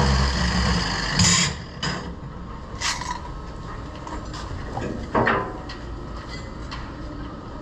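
Metalwork on a steel hull: separate clanks and knocks of metal on steel, four main ones spread over the clip, each with a short ring, over a low hum that fades after the first second or so.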